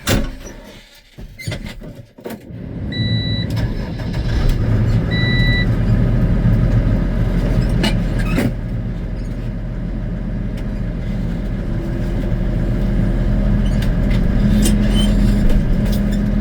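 A tractor engine starts about two and a half seconds in and then runs steadily. Two short beeps sound at about three and five seconds in.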